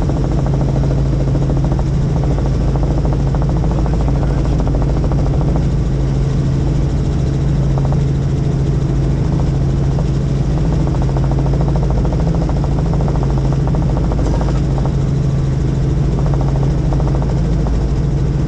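Helicopter in flight, a steady loud drone with a strong low hum that holds one pitch throughout.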